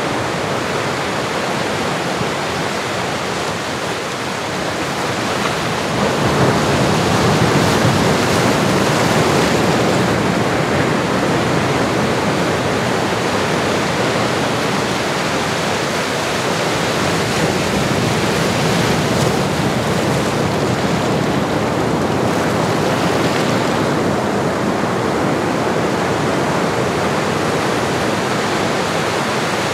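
Recorded ocean surf: a steady rush of waves that swells louder about six seconds in, then eases off a little.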